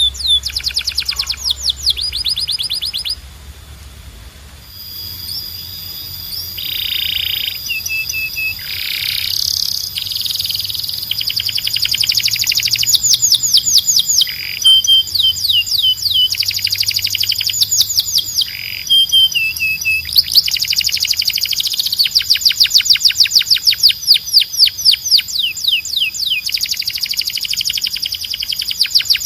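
Canary singing: fast trills of rapidly repeated downward-sweeping notes, broken by a quieter pause about three to five seconds in, then picking up again into long dense rolls.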